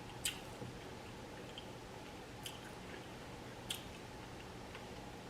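A person chewing food close to the microphone, with three sharp wet mouth smacks. A faint steady hum lies under it.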